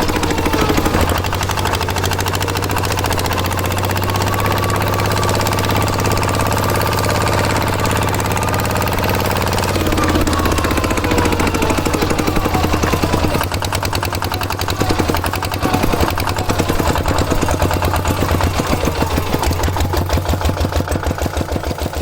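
Small tractor engine running with a rapid knocking beat. In the second half the beat grows more distinct and pulsing, and it is fading near the end.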